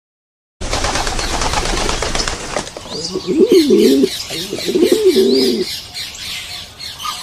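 A burst of flapping bird wings for about two seconds, then a dove cooing in two low, wavering phrases, with short high chirps over it.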